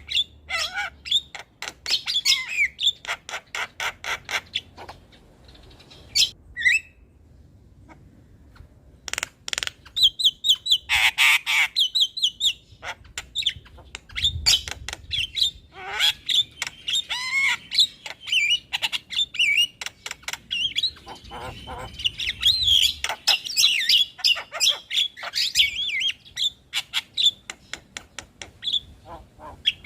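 Javan myna (jalak kebo) singing: rapid runs of clicks, harsh squawks and whistled notes, with a quieter pause about seven to nine seconds in.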